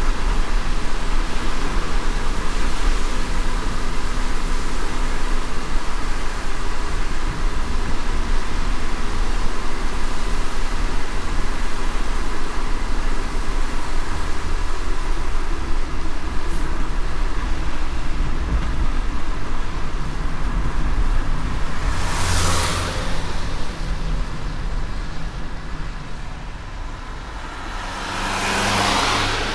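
A car driving in light rain: steady tyre and road noise with a low rumble, and two brief whooshes, one about two-thirds of the way through and one near the end.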